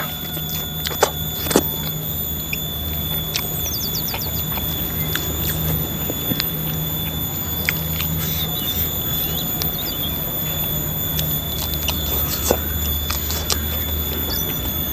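Chewing and lip smacks of a person eating spicy beef dendeng with rice by hand, with two sharp smacks in the first two seconds and another near the end. Under it runs an insect's steady high-pitched whine, the 'nging' of the surrounding wildlife, and a low rumble.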